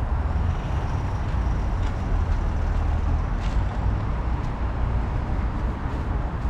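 Mitsubishi Fuso D8AY diesel V8 of a 1995 Hyundai Aero Queen high-decker bus idling steadily on a cold start, a deep even rumble.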